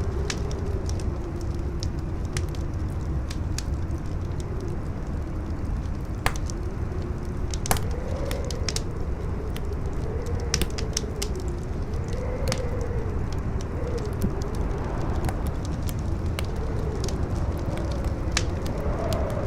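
Howling wind, a steady low rumble with a whistling tone that wavers up and down in pitch, over a wood fire crackling with frequent sharp pops. Two louder pops come about six and eight seconds in.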